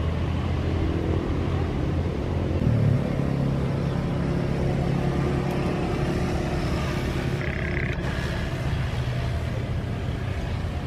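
A steady low engine rumble with a droning hum, stepping up slightly in pitch about three seconds in.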